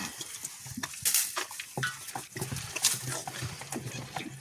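Short low animal calls, repeated several times, among scattered clicks and knocks.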